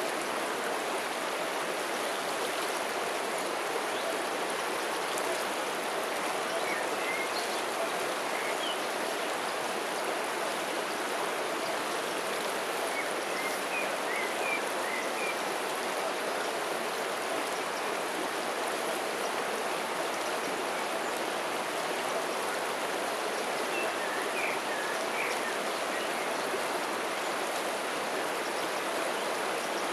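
River water flowing in a steady, even rush. A few faint, brief high-pitched sounds come through about a quarter, half and four-fifths of the way in.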